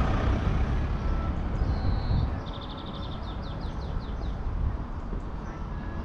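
Outdoor street sound: a steady low rumble, loudest in the first two seconds. About two seconds in, a small bird sings a short phrase: a brief whistle, then a run of quick falling notes.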